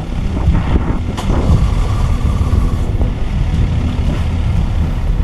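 A steady engine rumble mixed with wind buffeting the microphone.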